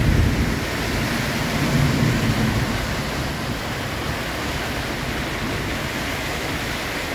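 Heavy storm rain, a loud steady rush, heard from inside a houseboat's plastic-curtained canopy, with two low rumbling swells in the first two and a half seconds.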